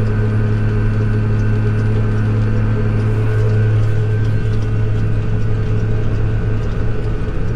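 Tractor engine running at a steady speed while the tractor is driven along, towing a harrow.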